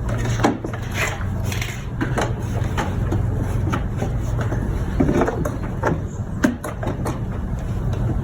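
Plastic engine-bay parts being handled and clipped: scattered light clicks and knocks, a few sharper ones about halfway and near the end, over a steady low hum.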